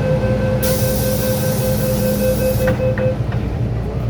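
MTR M-Train at a platform with its door-closing warning: a rapid, evenly pulsing beep over the steady rumble of the train's equipment, with a burst of air hiss as the doors run. The beeping stops about three seconds in as the doors shut with two knocks.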